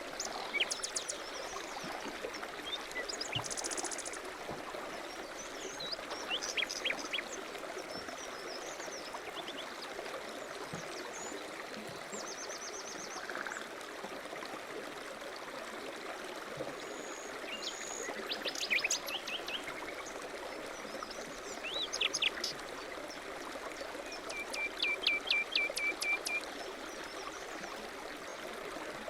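Several songbirds chirping, trilling and whistling in short phrases, including a quick run of repeated notes near the end, over a steady rushing background noise.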